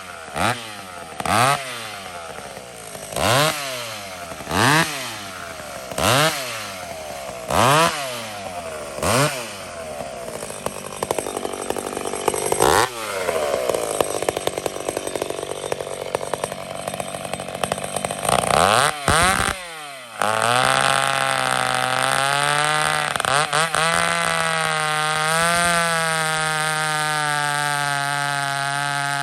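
Hot-rodded McCulloch 850 two-stroke chainsaw being revved in quick blips about every second and a half, then held at high revs for about ten seconds. After a short break about two-thirds of the way in, a steady, even drone takes over.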